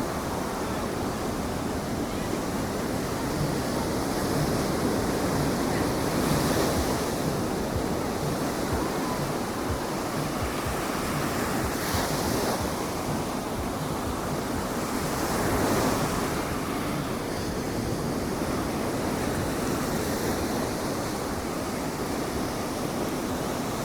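Ocean surf on a beach: waves breaking and washing in as a steady rush that swells every few seconds, with wind on the microphone.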